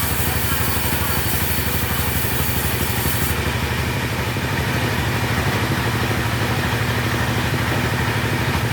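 Two-stroke chainsaw engine running steadily at low speed, with a high hiss that drops away about three seconds in.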